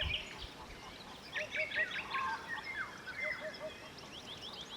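Eurasian hoopoe calling its low, soft three-note hoot twice, with other small songbirds chirping and trilling higher over it.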